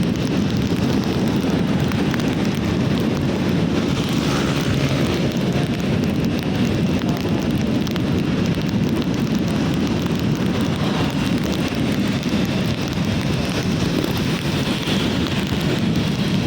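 Heavy rain falling steadily, a constant even wash of noise with a strong low rumble.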